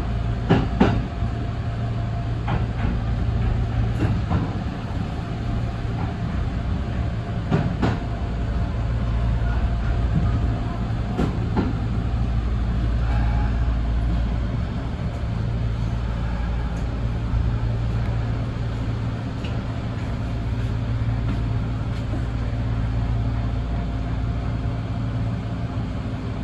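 Electric express train heard from inside the front cab while running: a steady low rumble, with a few irregular sharp clacks as the wheels pass over rail joints and points.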